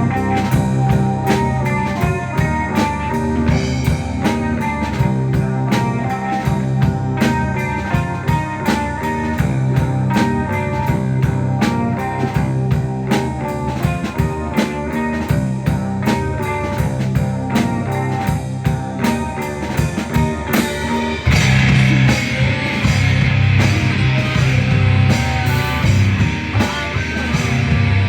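A rock band playing an instrumental passage on guitar and drum kit, in a raw, unmixed recording. About 21 seconds in it shifts into a louder, denser section.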